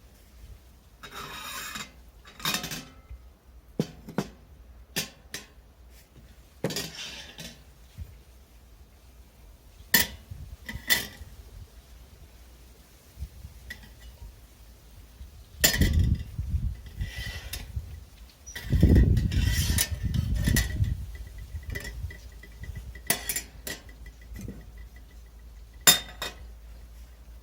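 Metal camping gear being handled: scattered clinks and rattles of metal pieces knocking together, with heavier bumps and handling noise around the middle.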